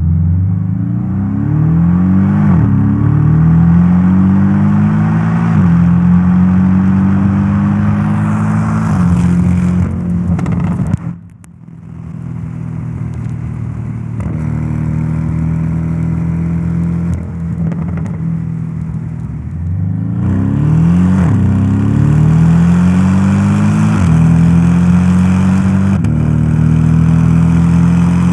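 Porsche 718 Boxster S's 2.5-litre turbocharged flat-four accelerating hard through the gears, its pitch climbing in each gear and dropping back at each upshift. About eleven seconds in the throttle is lifted briefly and the engine runs steadily before a second run of rising revs and upshifts.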